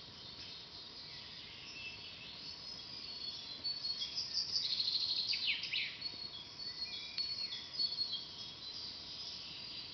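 Several songbirds singing in a forest, with the busiest stretch about halfway in: a rapid trill and a few quick downward-sweeping notes, over a faint steady hiss.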